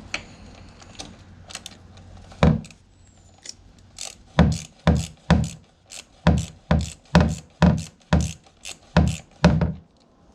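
Hand tool working the oil drain plug on a Suzuki GSX-R600: one sharp click, then a run of about a dozen sharp clicks roughly two a second.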